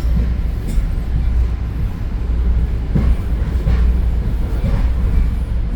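EXO commuter train running at speed, heard from inside the passenger car as a steady low rumble.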